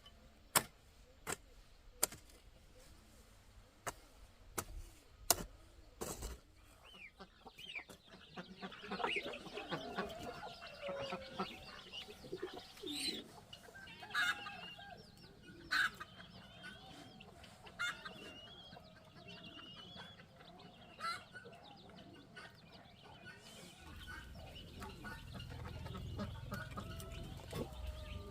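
Chickens clucking and calling, a busy mix of short calls that sets in after a string of sharp knocks in the first few seconds; a low rumble rises near the end.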